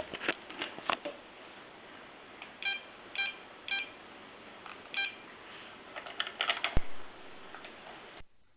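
Four short electronic beeps, each a single pitch with overtones, among scattered clicks and taps; a sharp click near the end is the loudest sound.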